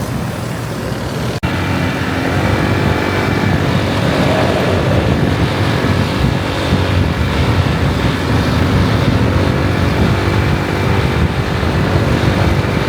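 Motor vehicle engine running steadily over road noise, with an abrupt break about a second and a half in.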